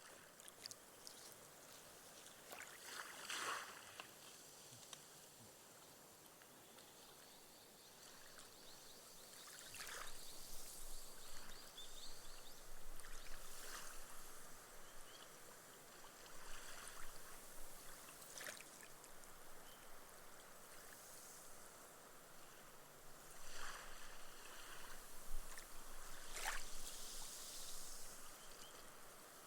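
Gentle ripples washing up a sand beach and sinking into the sand, each wash ending in a fizzing hiss as the foam bursts and drains away. The washes come every few seconds over a steady soft hiss.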